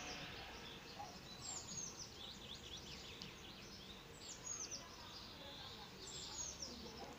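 Songbirds calling: a run of short, high chirps that slide down in pitch, coming in scattered clusters over a faint steady background.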